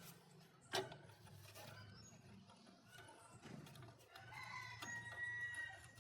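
A rooster crowing once, faintly, starting about four seconds in and held for about a second and a half, over a low steady hum. A single sharp knock sounds about a second in.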